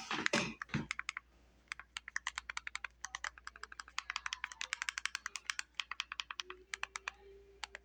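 Typing on a computer keyboard: a quick, irregular run of key clicks, several a second, starting about two seconds in.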